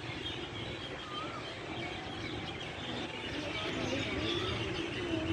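Many birds chirping and twittering together in a continuous busy chatter of short high calls, with some lower wavering calls mixed in.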